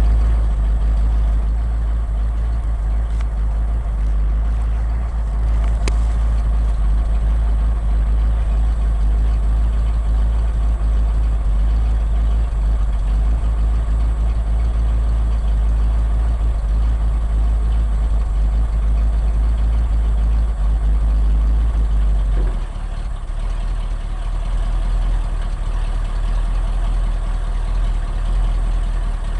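Exhaust of a 1980 Ford F100's 302 small-block V8 with two-barrel carburetor, idling steadily with a deep, even rumble at the tailpipe.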